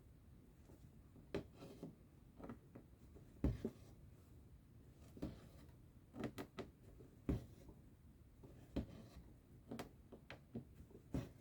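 Soft, irregular ticks and scratchy rasps of a needle and thread being pushed and pulled through cross-stitch fabric, about one every second or two.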